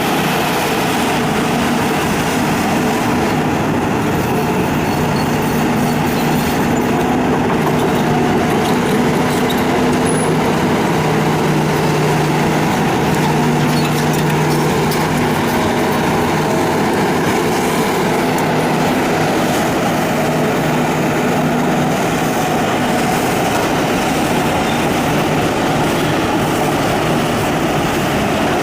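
Hitachi excavator's diesel engine running steadily under working load, its pitch shifting slightly now and then.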